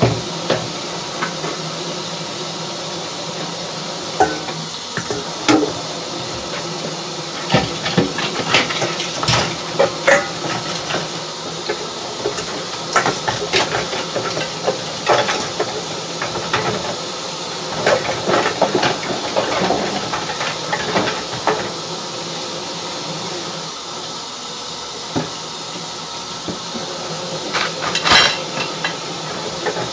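Kitchen dishes and pans clinking and knocking against each other in irregular bursts while being cleaned up, over a steady hiss.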